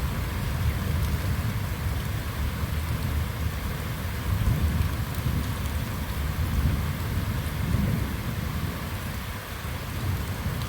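Steady rain falling, with low thunder rumbling underneath throughout.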